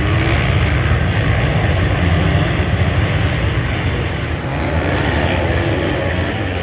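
Motocross bike engines running hard at race speed, a loud, dense, steady engine noise.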